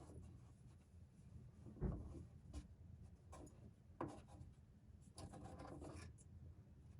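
Faint rubbing and crinkling of Teflon (PTFE) thread tape being wrapped around a plastic drain pipe's threads, with a soft knock about two seconds in and another about four seconds in.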